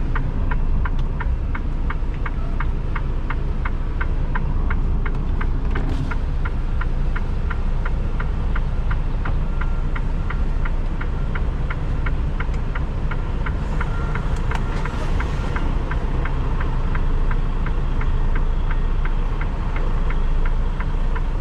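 Diesel engine of a 2021 Freightliner Cascadia semi truck running at low speed while backing a trailer, heard from the cab, with a steady fast ticking of about three ticks a second over it.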